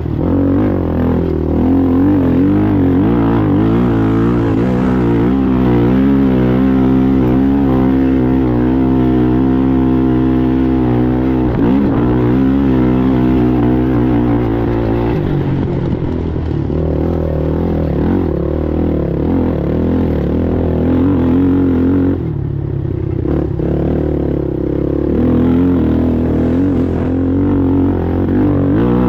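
A Sportsman-class ATV engine running hard under racing load, its revs rising and falling with the throttle. About 22 seconds in the revs drop briefly, as on a lift off the throttle, and then climb again.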